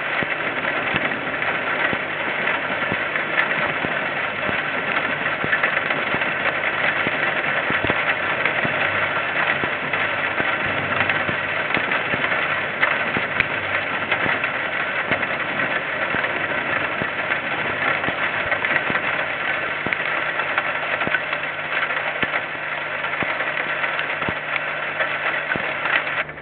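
A KiwiRail diesel train running past, a steady loud engine and rolling noise, heard through a security camera's thin-sounding microphone. It cuts off abruptly near the end.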